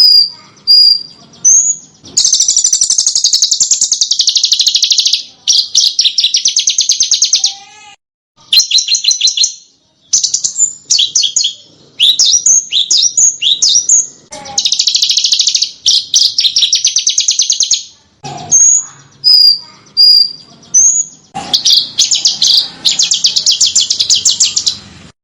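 Small songbird song: short, high whistled notes and sharp chips alternate with long, very fast high trills lasting two to three seconds each, in a repeating cycle of phrases.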